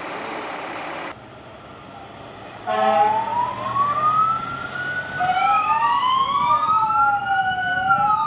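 A short horn blast about three seconds in, then emergency-vehicle sirens wailing: two tones slowly rising and falling out of step, crossing each other. Before that, a steady vehicle rumble that drops away about a second in.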